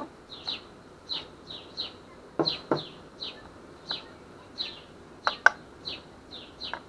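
A small bird chirping over and over, short falling chirps about twice a second. Sharp knocks of lead sinkers being set down on a glass-topped digital scale come in two pairs, a little over two seconds in and about five seconds in, the second pair the loudest.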